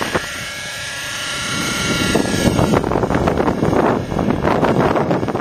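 Raptor 50 radio-controlled helicopter flying, its small nitro engine and rotor giving a steady high whine. From about three seconds in, gusty wind buffets the microphone with a rough rumble.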